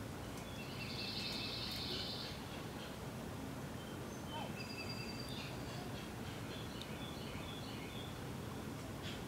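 Wild birds singing and calling: a buzzy trill lasting about two seconds near the start, then scattered short high chirps and whistles, over a steady low outdoor rumble.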